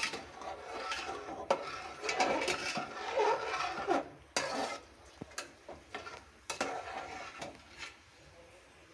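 A spoon stirring and scraping through a pot of boiling rice-and-lentil khichuri, clinking against the pot, with many short knocks. It dies away near the end.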